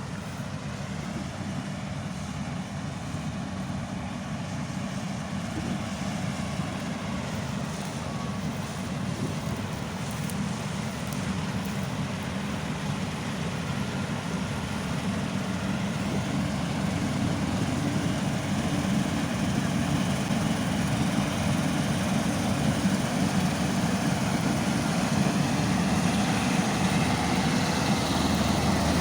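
Diesel engine of heavy farm machinery running steadily, growing gradually louder.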